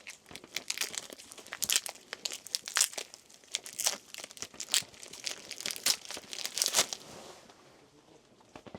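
Wrapper of large dog bone treats being torn open and crinkled by hand, a run of irregular crackling rustles that stops about seven seconds in.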